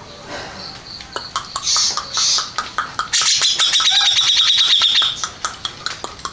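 Cucak jenggot (grey-cheeked bulbul) singing: a couple of short high calls, then a loud rapid trill of about two seconds starting around three seconds in, with sharp clicking notes scattered throughout.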